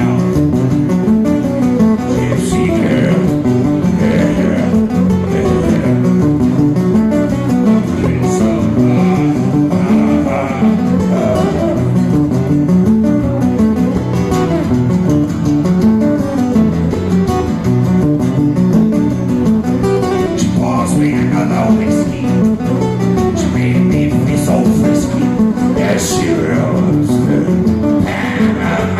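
Live guitar instrumental: quick runs of plucked notes with occasional strummed chords.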